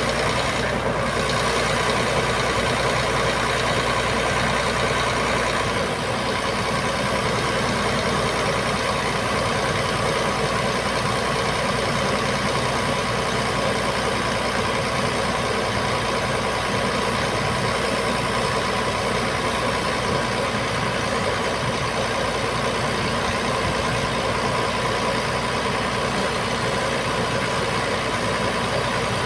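Heavy diesel engine running steadily at constant speed, with a slight change in tone about six seconds in.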